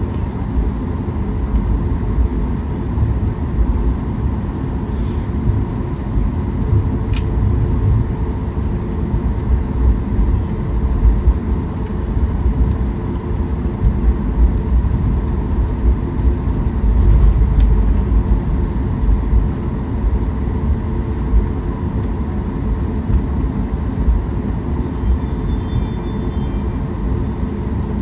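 Cabin noise inside a Boeing 737 MAX 8 taxiing after landing: a steady low rumble from the idling engines and the rolling gear, which swells and eases, with a constant hum from the cabin air system and a few faint ticks.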